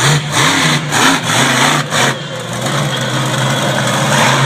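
Monster truck engine revving hard, its note wavering with several quick dips in the first two seconds, then running more steadily and a little quieter.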